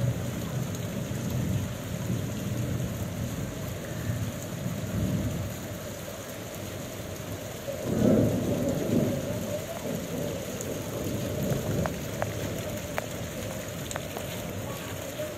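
Heavy rain falling on paved streets and parked vehicles, a steady hiss. It is broken by low rumbling surges, the strongest about eight seconds in, and a few sharp ticks near the end.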